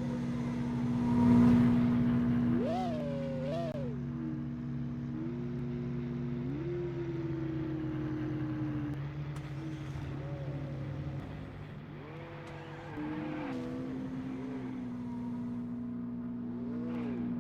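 Car engine idling steadily, with short throttle blips: two quick revs about three seconds in, and more revs later, near the middle and near the end.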